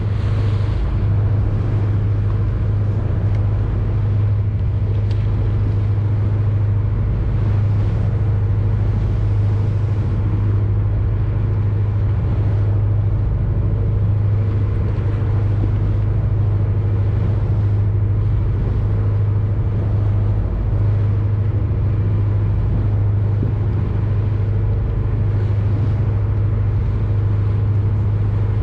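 A boat's engine running steadily, a constant low hum with a hiss of noise over it.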